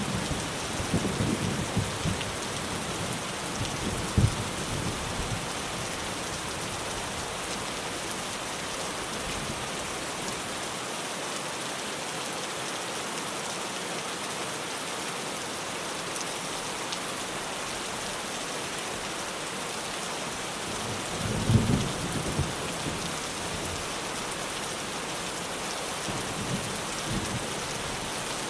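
Steady rain on a tin roof, with low rolls of thunder in the first few seconds, one sharp clap about four seconds in, and another roll about twenty-one seconds in.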